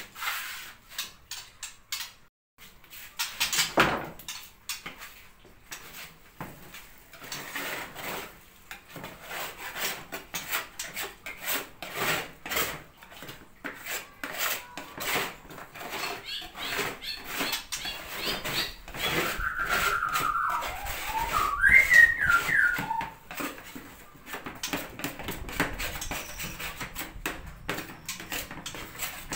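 Irregular clatter and scraping of a bird cage's parts being handled while the cage is cleaned of droppings. About two-thirds of the way through, a short gliding whistle-like call rises and falls over a few seconds.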